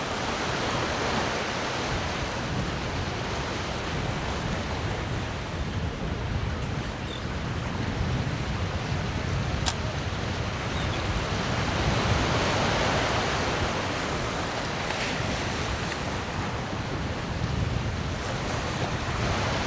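Ocean surf and wind rushing steadily at an inlet, with wind buffeting the microphone; the rush swells a little about twelve seconds in. A single sharp click comes near ten seconds.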